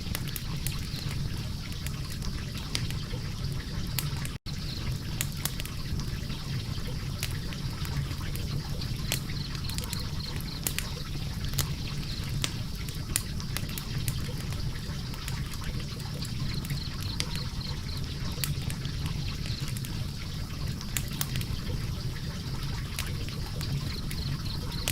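Wood logs burning in a fireplace: frequent sharp crackles and pops over a steady low rush of flame. The sound drops out for an instant about four seconds in.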